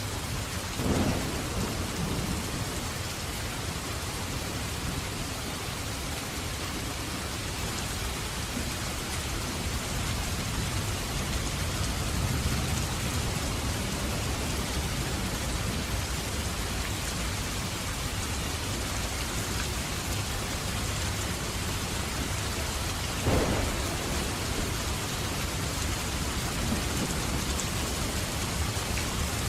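Steady heavy rain with thunder: two sharp cracks, about a second in and about 23 seconds in, each followed by rumbling, over the constant hiss of the rain.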